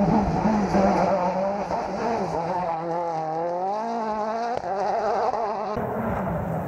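A rally car's engine revving hard and unevenly, its pitch dipping about three seconds in and then climbing again as the car accelerates. The sound changes abruptly near the end to another stretch of engine noise.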